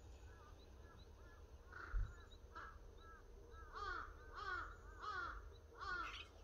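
Birds calling: a fast series of short, arched calls, about three a second, growing louder about halfway through. A single dull thump comes about two seconds in, over a low steady rumble.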